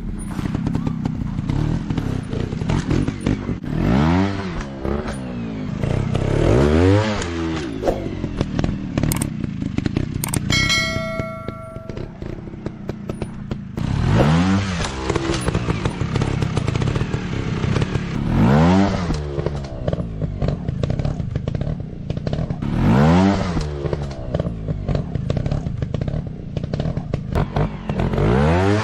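Motorcycle engine revving up and falling back about six times over a steady running and clattering noise. A short ringing chime sounds near the middle.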